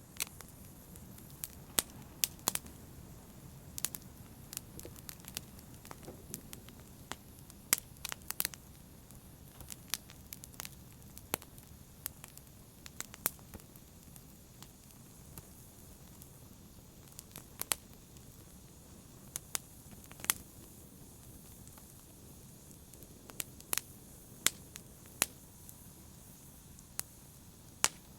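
Fire in a fireplace crackling: irregular sharp pops, a few a second, over a soft steady rumble and hiss of the flames.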